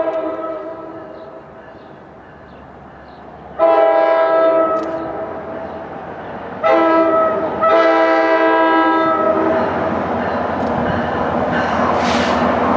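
Locomotive air horn sounding four blasts, the third one short, in the pattern of the grade-crossing signal. The rumble and rail noise of the approaching train then grows louder.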